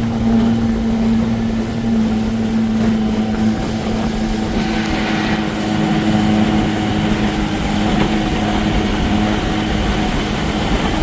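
Johnson 20 hp two-cylinder two-stroke outboard motor running at a steady speed, its engine note holding constant.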